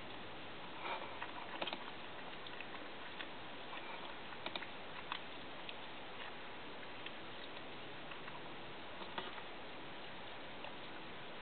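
Scattered small clicks and smacks of someone eating close to the microphone, over a steady hiss.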